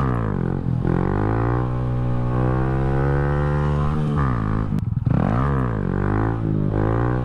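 Honda Grom's 125 cc single-cylinder engine revving under throttle for a wheelie. Its pitch climbs steadily for about four seconds, drops sharply about five seconds in, then rises and falls several times in quick succession as the throttle is worked.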